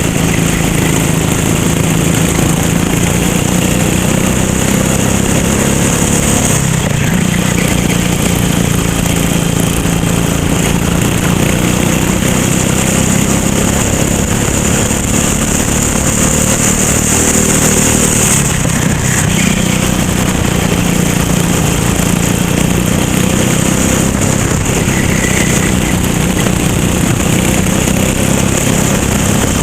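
Racing kart engine running hard at high revs. Its note drops twice, about seven seconds in and again near nineteen seconds, as the throttle is lifted for corners, then climbs back up under acceleration.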